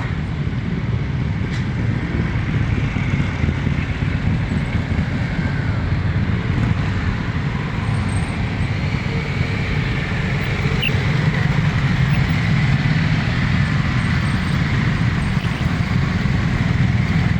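A group of motorcycle engines running together at idle and low speed, a steady low drone that grows slightly louder toward the end.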